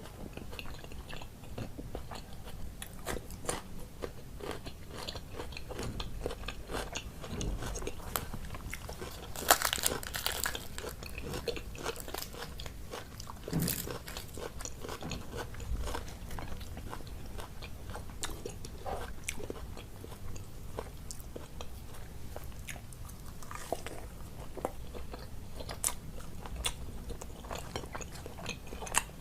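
A person eating close to the microphone: biting and chewing with crunching and many small wet mouth clicks, and a louder stretch of crunching about ten seconds in.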